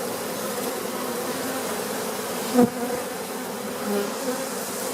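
Honey bees buzzing steadily around an open hive, with a brief, louder buzz about halfway through and another near the end as bees pass close.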